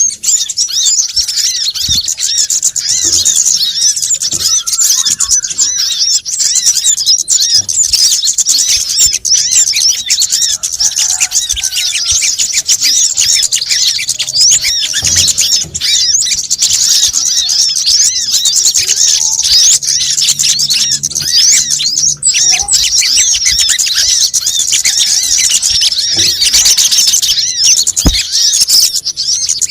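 Bird-lure recording of kemade, sogon and kolibri kelapa (sunbird) calls: a dense, unbroken stream of rapid high-pitched chirping and twittering from many birds at once.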